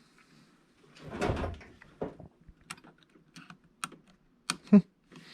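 Small hand tools working on the plastic and metal parts of a drone gimbal: a short rustle about a second in, then scattered small clicks and taps, with a louder click near the end, as a stubborn part is worked loose.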